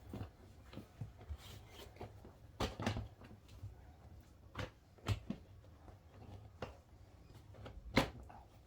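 Scattered knocks and clicks from a flat-pack storage box being put together by hand, its panels pressed and fitted into place, with the sharpest knock near the end.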